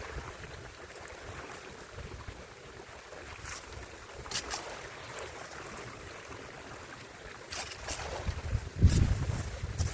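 Strong wind gusting against the microphone, rumbling, with a hard gust near the end, over a water-like hiss from the garden stream. A few short sharp sounds come through, one about a third of the way in and a few more near the end.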